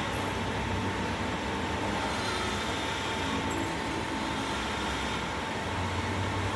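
A workshop machine running steadily, a constant whine over an even mechanical noise and a low hum.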